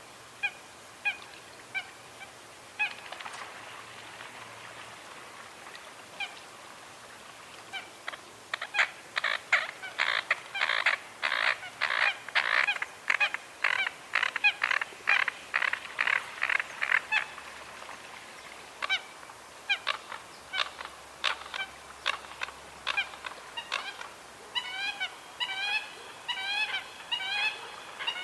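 Coots calling: short, sharp, honking notes, scattered at first, then a fast, louder run of calls in the middle, and a string of quick rising-and-falling notes near the end.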